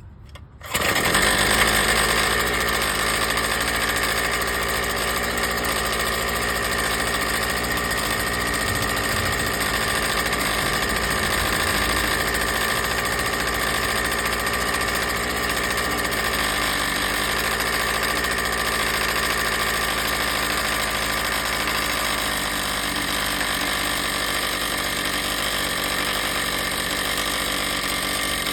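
Earthquake mini tiller's small two-stroke engine running steadily. It comes in abruptly about a second in and then holds an even, unchanging note.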